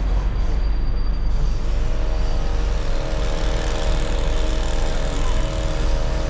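Steady low vehicle rumble, with faint music coming in about two seconds in.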